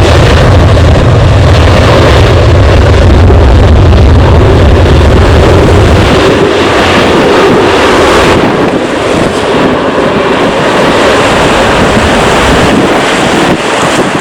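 Boeing 737-800's CFM56-7B jet engines at departure power, a heavy low rumble that drops away about six seconds in, leaving a steady roar with wind buffeting the microphone.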